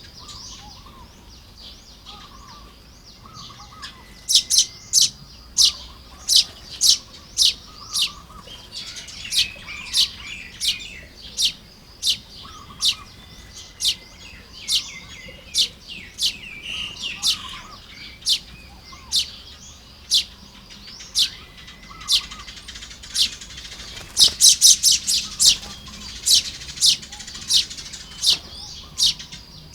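Baya weavers calling around their nests: a long series of sharp, high chip notes, about one to two a second, breaking into a quick run of them near the end, over softer chattering.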